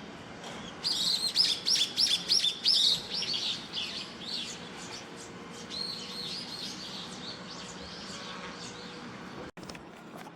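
Eurasian tree sparrows chirping: a burst of loud, rapid chirps starting about a second in, then softer, sparser chirps that trail off.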